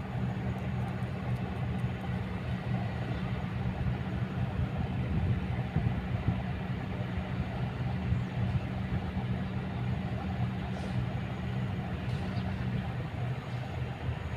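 Kobelco excavator's diesel engine running steadily with a low, even hum; one of its tones drops away near the end.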